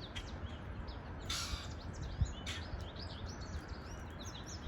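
Small birds chirping in many quick, short notes over a steady low rumble, with a brief rushing noise about a second and a half in.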